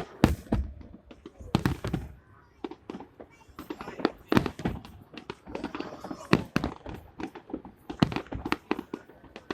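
Fireworks bursting in an irregular series of sharp bangs and crackles, the loudest booms coming just after the start and again about a second and a half in.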